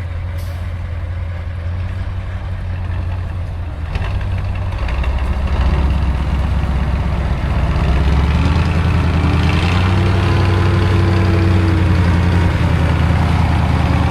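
Heavy off-road truck engine running, growing louder and pulling harder from about five seconds in.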